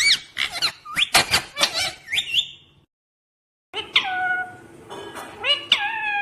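Pet parrot giving a run of short, high, squeaky calls. The calls break off about three seconds in for a moment of dead silence, then resume.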